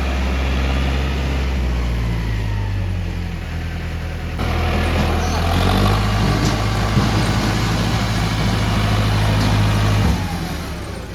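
Heavy diesel engine running at low revs, then revving up about four and a half seconds in and held under load, dropping back near the end.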